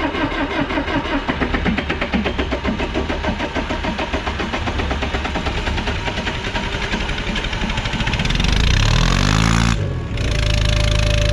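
Small four-cylinder Perkins diesel in an old loader cranking on the starter with an even chugging beat. It catches about eight seconds in, revs up, and then settles into steady running: a hard cold start on a worn engine that may have had water in it.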